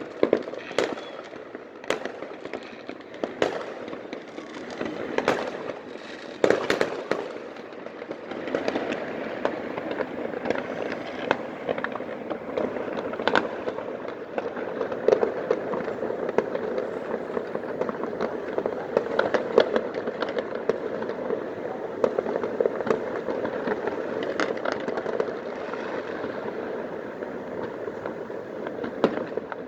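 Many fireworks going off across the city: a string of sharp pops and bangs, a second or two apart at first, then from about eight seconds in a denser, constant crackle with pops scattered through it.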